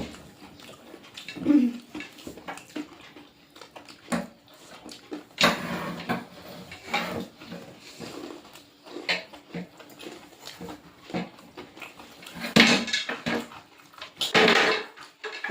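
Dishes and cutlery clinking and knocking irregularly during a meal, with a brief whining vocal sound about a second and a half in.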